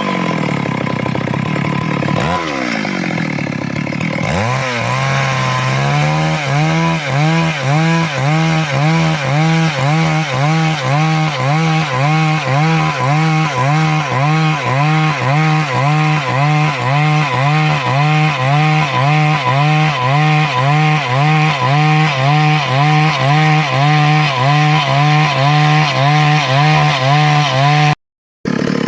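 Stihl MS 382 two-stroke chainsaw running: its engine pitch sweeps and drops over the first few seconds, then settles into a steady note that wavers regularly about twice a second. The sound cuts out briefly near the end.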